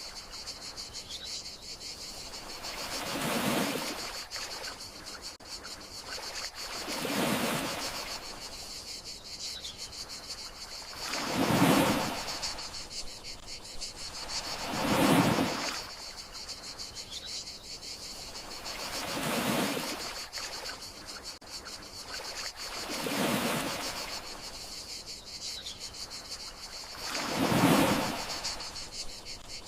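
Gentle sea waves washing ashore in slow swells about every four seconds, seven in all, over a steady chirring of crickets.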